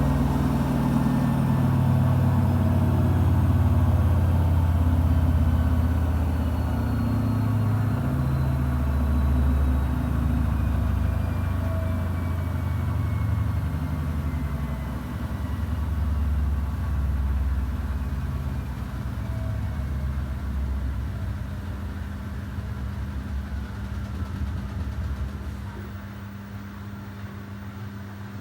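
Samsung WW90J5475FX digital inverter washing machine slowing down from its 1400 rpm spin: the motor's whine falls steadily in pitch over the low rumble of the drum, and the sound slowly grows quieter.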